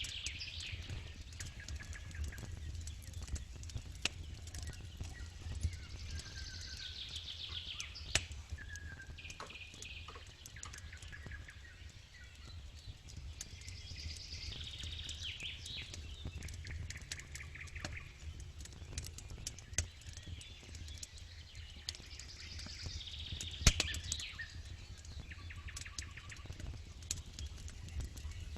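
Campfire crackling with scattered sharp pops, under songbirds singing repeated trilled phrases.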